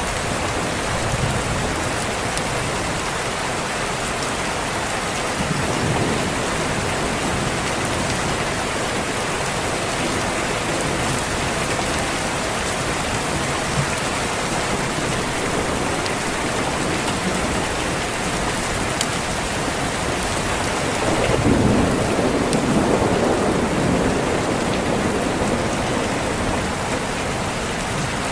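Steady, even rain hiss with thunder rumbling twice: a soft roll about six seconds in, then a louder, longer roll about three-quarters of the way through.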